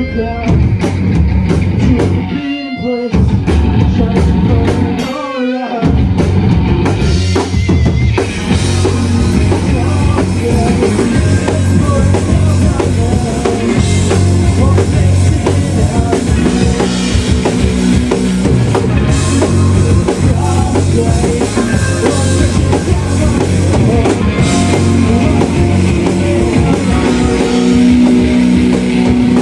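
Shoegaze rock band playing live: a dense wall of distorted guitars with drum kit. The sound thins out twice in the first six seconds, then runs full and unbroken.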